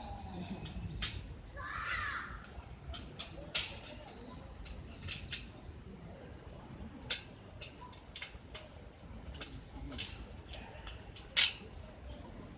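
Wood fire crackling: irregular sharp pops and snaps, the loudest about eleven seconds in. A distant voice or call sounds briefly about two seconds in.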